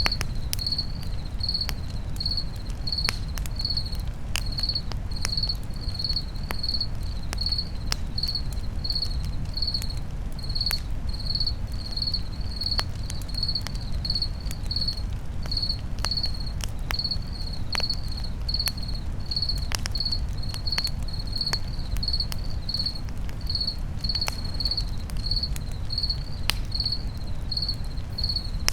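Campfire crackling with sharp, irregular pops over a low steady rumble, and crickets chirping steadily about twice a second.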